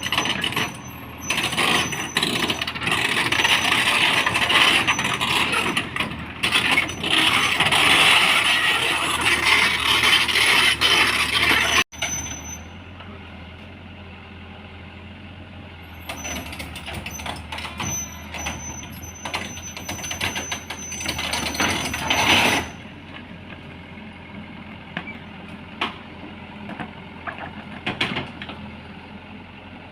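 Heavy machinery running, with repeated metal clanks, as an excavator is unloaded from a truck. The sound is loud for the first twelve seconds, cuts off abruptly, then goes on quieter with scattered knocks.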